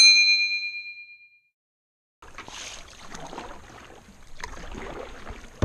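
A single bright bell-like ding with several ringing tones that fade away over about a second and a half. It is followed by a moment of dead silence, then faint outdoor ambience.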